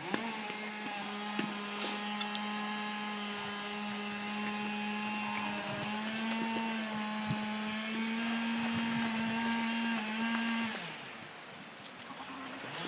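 A small motor running with a steady, high humming whine; near the end it drops in pitch and fades, then starts up again.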